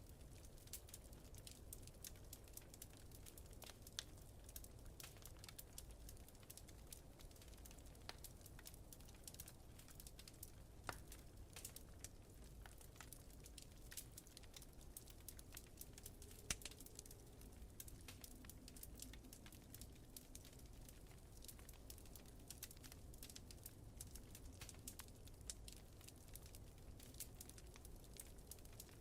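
Wood fire crackling in a fireplace, faint: a constant scatter of small snaps and ticks with a few louder pops, over a low rumble.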